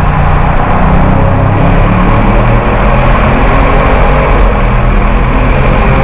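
Audi RS6 C7's twin-turbo V8 running at steady revs, under a dense rush of road noise.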